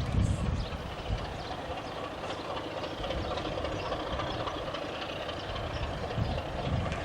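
A train running on a heritage railway line: a steady mechanical rumble with low swells near the start and again about six seconds in.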